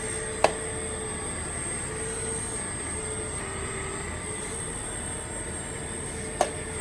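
Radio-controlled CAT 336D2 model hydraulic excavator running, with a steady mechanical whine whose pitch wavers and shifts as it works. Two sharp clacks, one about half a second in and one near the end.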